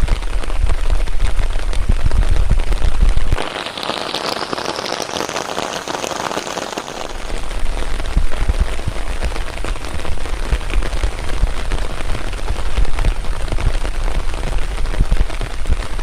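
Rain falling on fern leaves: a dense, steady patter of countless drop ticks. About three seconds in, a deep rumble underneath drops out for several seconds while the hiss grows brighter, and then the rumble comes back.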